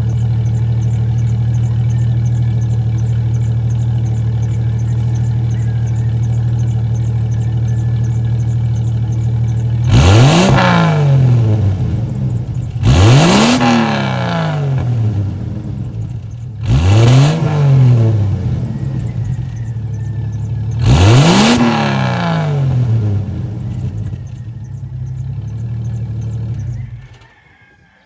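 1998 Jeep Cherokee 4.0-litre inline-six running through an aftermarket muffler. It idles steadily, then is revved four times, three to four seconds apart, each rev climbing quickly and falling back to idle. The engine sound stops near the end.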